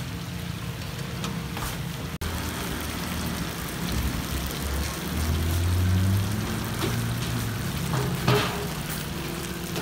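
Pan-fried stuffed buns sizzling in oil in a large iron pan: a steady hiss and crackle. A low rumble swells in the middle, and there is one sharp knock near the end.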